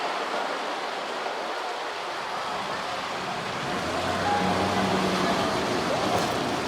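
City street traffic noise. A low vehicle hum comes in about halfway through, with a brief high tone a little later.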